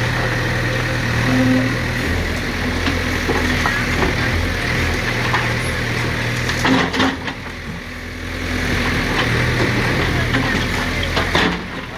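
JCB backhoe loader's diesel engine running steadily, dipping briefly about seven seconds in. A few sharp knocks come through, one about seven seconds in and one near the end.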